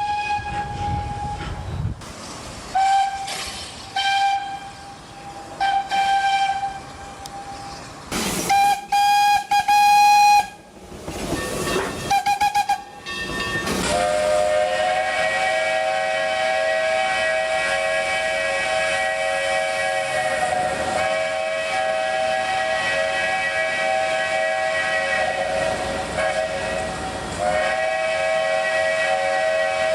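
Steam locomotive whistles with steam hiss. A string of short single-note blasts comes first. About halfway through, a loud multi-note chime whistle starts and is held long, with one brief break near the end.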